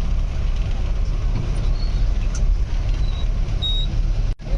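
Steady low rumble of a safari vehicle's engine running, with a few short high-pitched chirps over it. The sound drops out for a moment near the end.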